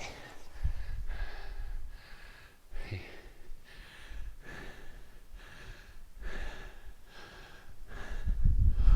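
A man breathing hard and rhythmically through kettlebell thrusters, about one breath every 0.7 s. A low thud comes near the end.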